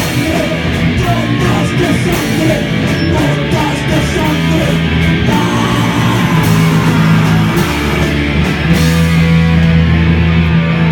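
Rock band playing an instrumental passage at full volume: distorted electric guitar and bass over drums, with repeated cymbal hits.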